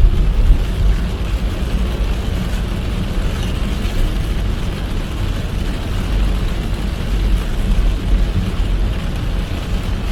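A car driving in heavy rain: a steady low rumble of the car and its tyres on a wet road, with the hiss of rain and spray over it.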